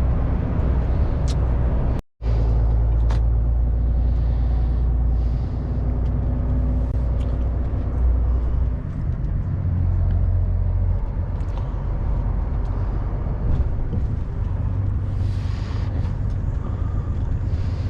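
Heavy goods lorry's diesel engine and road noise heard from inside the cab while driving: a loud, steady low drone whose note shifts a couple of times. The sound cuts out completely for an instant about two seconds in.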